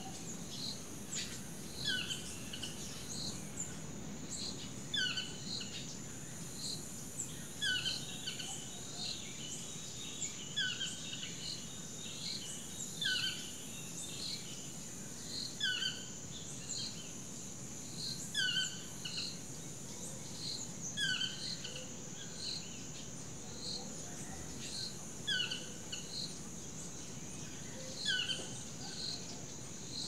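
Rainforest ambience: a steady, high-pitched insect drone, with a bird giving short, slightly falling chirping calls about once a second.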